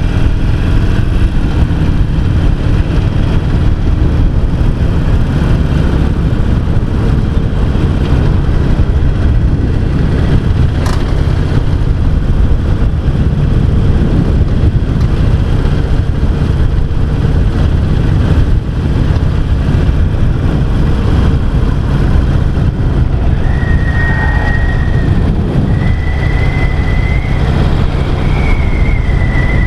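Harley-Davidson XL883C Sportster's 883 cc air-cooled V-twin engine running steadily under way at road speed, heard from the rider's seat.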